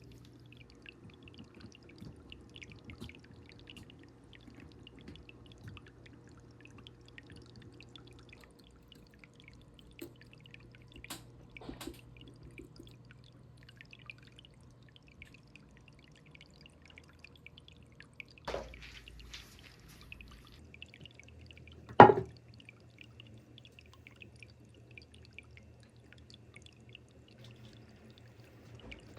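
Faint trickling and dripping water over a steady low hum, with a few small clicks and one sharp knock about three quarters of the way through.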